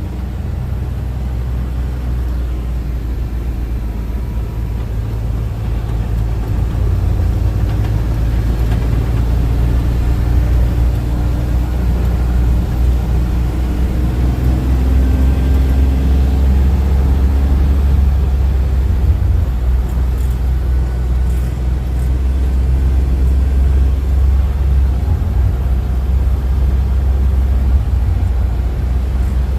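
Engine of a moving vehicle running steadily, a loud, even low drone with no change in speed.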